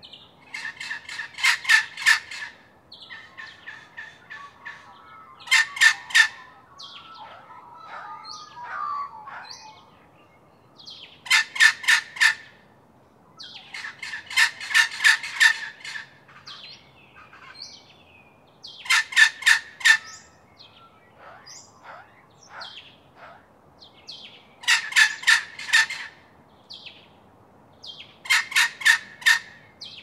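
Red wattlebird calling: bursts of four to six short, harsh notes, repeated every few seconds, with softer chirps between the bursts.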